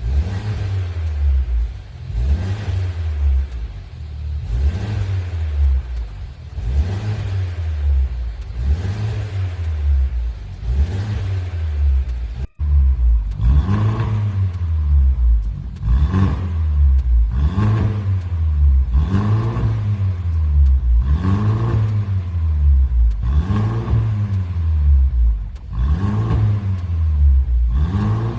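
Mercedes-Benz C200's four-cylinder engine blipped again and again through a custom variable valve exhaust, each rev rising and falling back to idle about every two seconds. A short break about halfway through, then the revving carries on.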